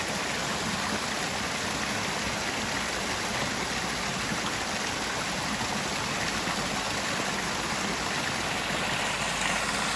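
Mountain stream rushing steadily over rocks, a continuous even wash of water.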